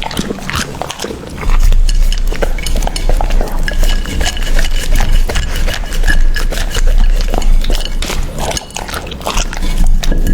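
A dog eating from a dish: quick, irregular crunching and chewing with clinks against the bowl.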